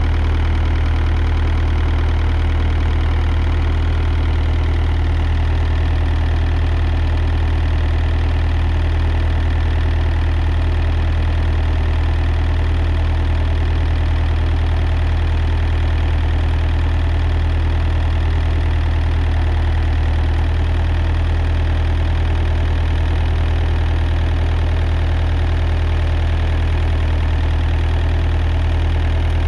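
An engine idling steadily, a constant low hum that does not change in speed.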